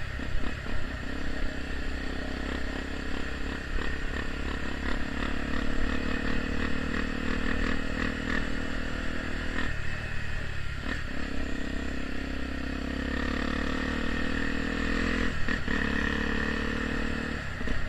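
Honda XR 250 Tornado single-cylinder engine running through a Protork aftermarket exhaust while being ridden, loud and steady. The note breaks off briefly and climbs again about ten seconds in and again near fifteen seconds.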